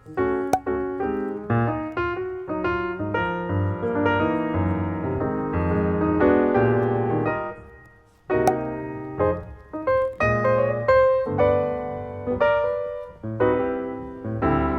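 Background piano music, notes played one after another in a light melody; it fades out about two-thirds of the way in and starts again a moment later.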